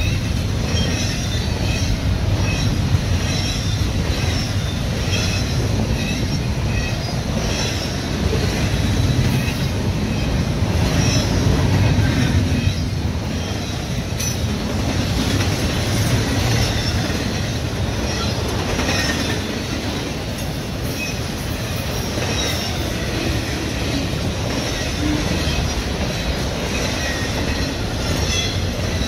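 Long intermodal freight train rolling past close by: double-stack container well cars, then trailers on flatcars. A steady rumble and clatter of wheels on rail, with brief high wheel squeals here and there.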